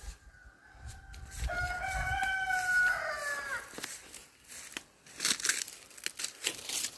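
A rooster crows once: one call of about two seconds that drops in pitch at the end. Scattered rustling and crackling follows.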